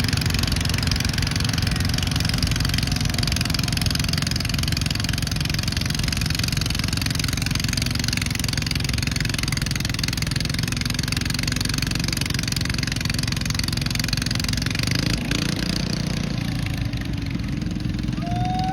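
Garden pulling tractor's engine running loud and steady, its sound thinning out about fifteen seconds in.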